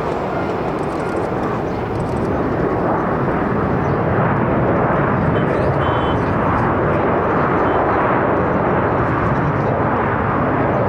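Jet airliner's engines on landing approach, a steady loud rush that grows a little louder about three seconds in and then holds.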